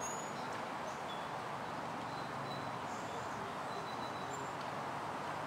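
Several brief, high bird chirps scattered over a steady background noise.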